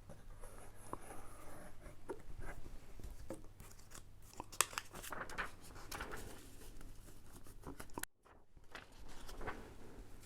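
Paper and card rustling, with small taps and clicks, as backing papers are handled and stuck down onto a folded card. One sharper click comes about halfway through, and the sound briefly cuts out near the end.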